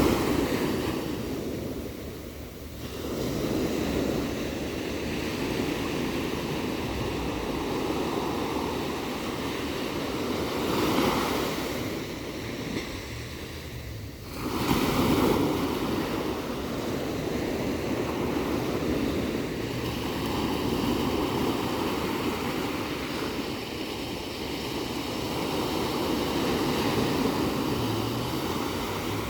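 Ocean waves washing onto a shore, the surf swelling and falling, with a surge about eleven seconds in and a louder one about fifteen seconds in, and some wind on the microphone.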